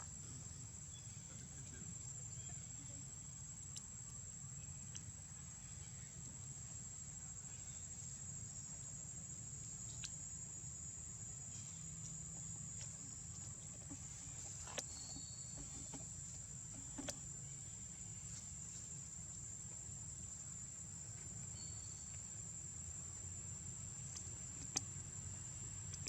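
Steady high-pitched drone of insects, unbroken throughout, over a low rumble, with a few faint clicks.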